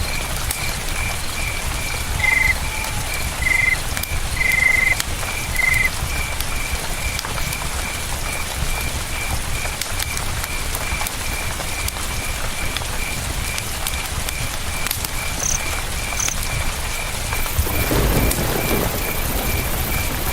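Campfire crackling over the steady rush of a river, with a cricket chirping in an even rhythm of about four chirps a second. Four short calls sound between about two and six seconds in, and a low rumbling swell rises near the end.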